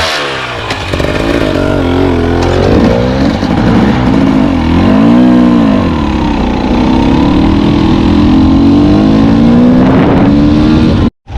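Honda CR250 two-stroke dirt bike engine being ridden, its pitch rising and falling as the throttle is worked up and down through the revs.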